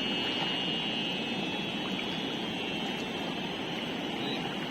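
Fast-flowing flooded river rushing steadily, with a thin high-pitched steady whine over it that slowly fades.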